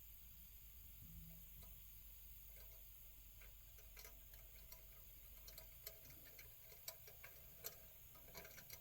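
Near silence with faint, scattered clicks and light taps of small metal stove parts being handled and fitted, a few sharper clicks in the second half.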